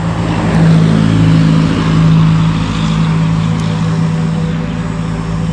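A motor engine running steadily, a low even hum over a constant wash of noise.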